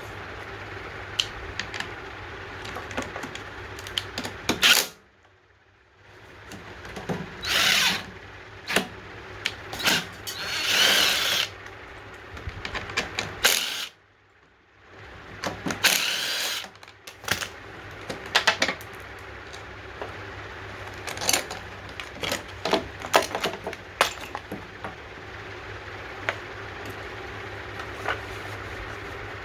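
Bench work on a small-engine carburetor: scattered clicks and knocks of tools and small metal parts, with a few short hissing bursts, over a steady low hum.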